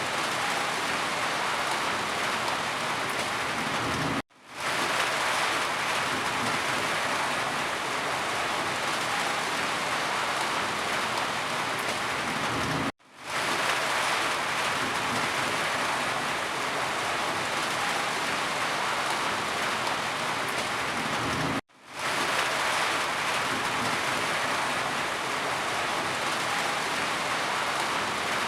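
Steady rain falling, a dense even hiss. Three times, about every nine seconds, it cuts out for a split second and fades quickly back in.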